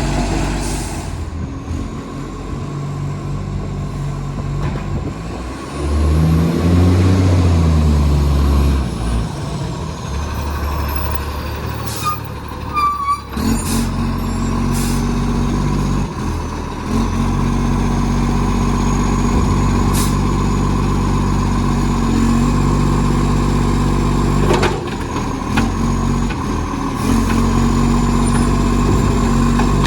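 Recycling garbage truck running with a massive exhaust leak. It revs up louder for a few seconds about six seconds in, then gives a short burst of air hiss about twelve seconds in, and after that settles into a steady, higher engine note.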